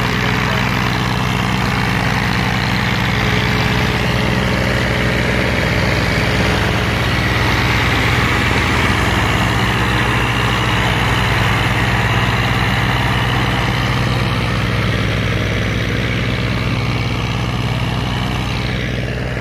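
Farm tractor diesel engine running steadily.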